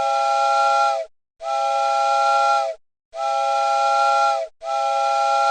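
Steam train whistle blown in four long blasts with short silent gaps between them. Each blast sounds several notes at once over a hiss, and the pitch sags a little as each one cuts off.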